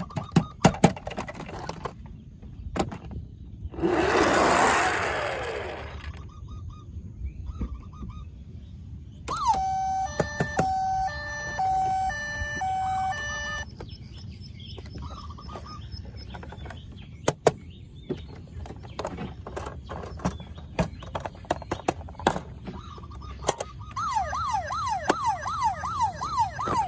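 Battery-powered toy vehicles' electronic sound chips: a short beeping tune plays in the middle, and a siren whoops over and over near the end, among sharp clicks of plastic toys being handled.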